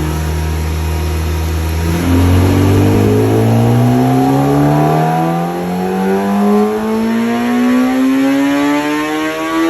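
Kawasaki ZX-10R inline-four engine running on a motorcycle dyno. It holds a steady speed, then about two seconds in it is opened up and its pitch climbs smoothly and steadily through the revs, as in a dyno pull.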